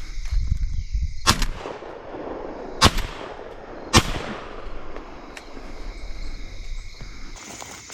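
Three shotgun blasts at doves, about a second and a half and then a second apart, each trailing off in a fading echo.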